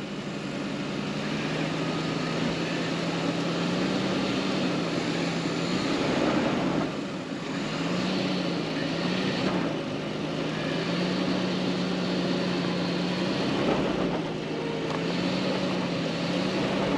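A motor running steadily, its hum wavering slightly up and down in pitch.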